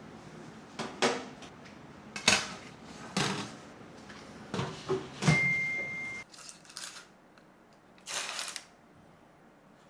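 Kitchen handling sounds: a series of knocks and clatters, then a single electronic beep about five seconds in, after which a steady appliance hum stops. A short rustle follows near the end.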